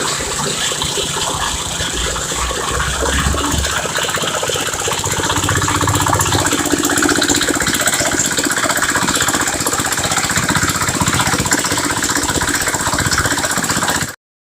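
Engine of a chain-driven water-well drilling rig running steadily, cutting off abruptly near the end.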